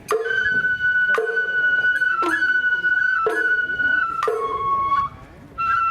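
Sawara festival hayashi music: a shinobue bamboo flute holding long high notes, with a sharp percussion strike about once a second. The flute drops out briefly near the end.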